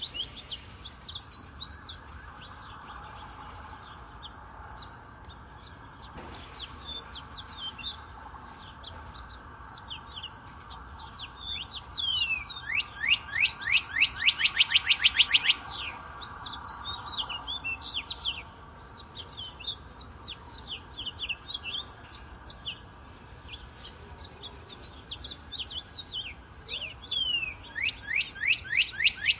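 Several songbirds chirping, with scattered high notes throughout and a rapid trill of repeated downward-sweeping notes about halfway through and again near the end.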